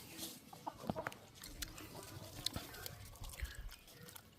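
Faint crunching and scattered small clicks of farm animals eating feed.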